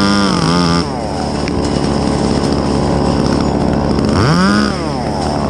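Two-stroke chainsaw running at full throttle, its pitch dropping early on into a rougher, noisier stretch. About four seconds in the engine revs quickly up and back down.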